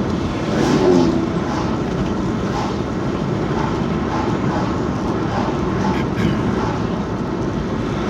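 Steady road and engine noise of a car being driven, heard from inside the cabin, with a slight swell about a second in.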